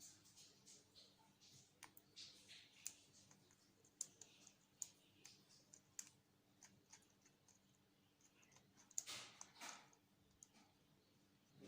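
Faint, scattered sharp clicks and short rustles from an African grey parrot's beak working at leaves, with a couple of louder rustles about nine seconds in.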